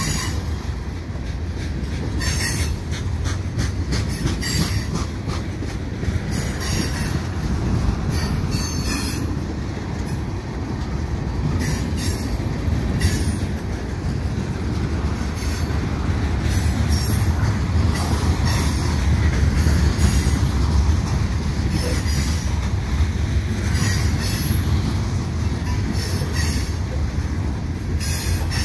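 Freight train's tank cars and covered hopper cars rolling past close by: a steady low rumble of steel wheels on rail, with brief high wheel squeals every second or two.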